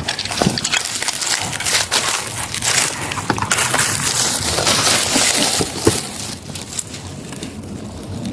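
Dense crunching and crackling, with many small snaps, as someone pushes on foot through dry brush and debris. It eases off after about six seconds.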